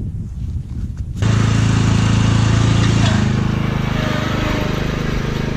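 Riding lawn mower engine running steadily at speed, loud and close. It comes in suddenly about a second in, eases slightly partway through, then picks up again.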